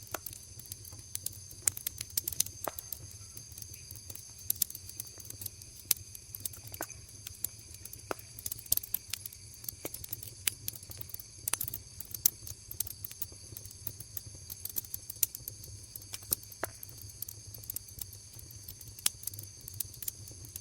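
Wood fire crackling, with frequent irregular sharp pops, over a steady high chorus of autumn crickets and a low steady rumble.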